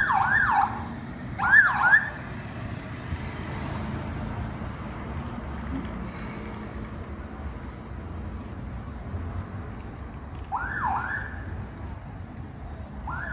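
Electronic vehicle siren giving short chirps: quick rising-and-falling whoops in groups of two or three, heard at the start, about a second and a half in, and twice more near the end, over a steady background of street noise.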